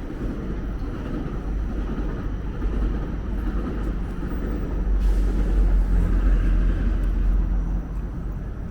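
A road or rail vehicle passing close by. Its low rumble swells from about five seconds in and eases off near the end.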